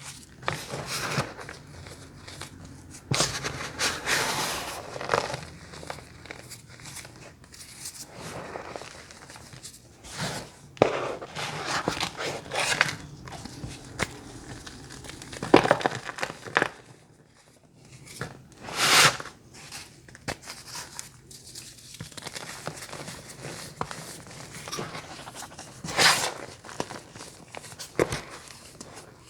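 Close-miked crunching and crinkling, irregular crackly sounds with a few sharper, louder crunches scattered throughout, from crunchy bars being handled or bitten.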